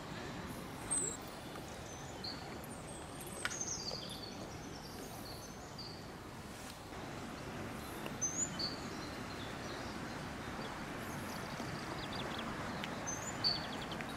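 Wild birds giving short chirps and calls, a few at a time, over a steady rushing background noise.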